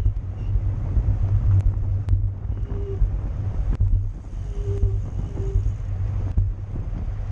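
Wind buffeting the microphone with a steady low rumble of road and tyre noise from a moving racing bicycle. A few thin clicks and three brief faint tones sound over it.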